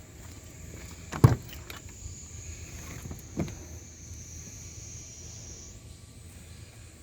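Engine idling with a steady low hum, a sharp knock about a second in and a softer knock a couple of seconds later.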